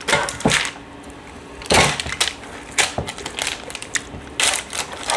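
Hands rubbing herb butter over a raw chicken: several short bursts of handling noise at irregular moments.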